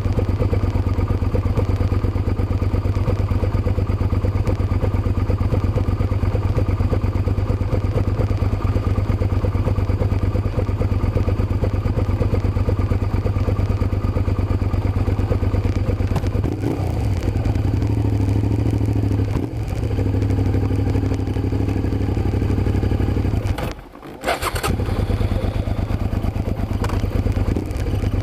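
Suzuki SV650's V-twin engine running loudly and steadily. Its note changes about two-thirds of the way through, and near the end the sound drops away for a moment, as on a closed throttle or a gear change, then picks straight back up.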